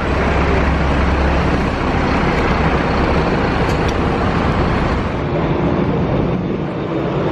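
Steady vehicle engine rumble and roar, with a strong deep hum for the first three seconds that then eases.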